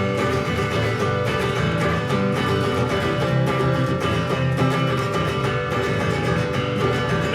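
Live country music instrumental break: strummed guitar playing steadily between sung lines of the song.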